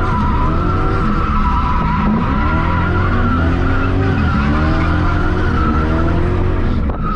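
Drift car's engine running hard, its pitch rising and falling, while the tyres squeal continuously through a long slide; the squeal fades briefly near the end.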